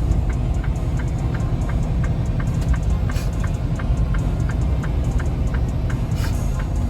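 Semi-truck running down a mountain grade, heard from inside the cab as a steady low engine and road rumble. A light, even ticking runs over it at about two to three ticks a second.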